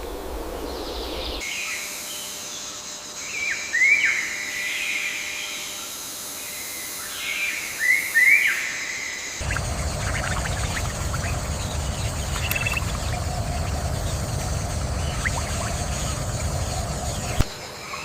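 Birds calling in short rising chirps, in two bursts a few seconds apart. About halfway through, a steady low rumbling noise sets in under fainter calls.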